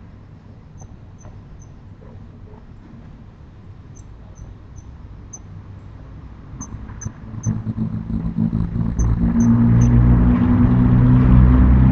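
Car engine running close by, growing loud about seven seconds in and holding a steady low drone. Before it, faint high chirps come in groups of three.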